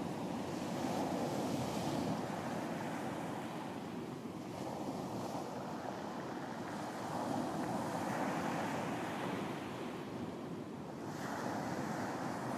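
Sea waves breaking and washing on a beach, a steady surf noise that swells and eases every few seconds, with some wind.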